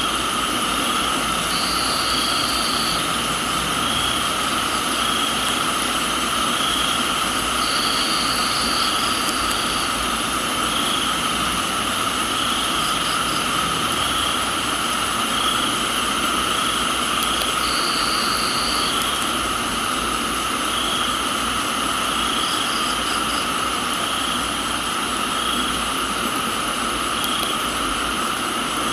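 Dense chorus of crickets and other night insects: several steady trills at different pitches, one swelling every second or so, and a higher trill that cuts in for a second or two at a time. All of it sits over an even hiss of rain.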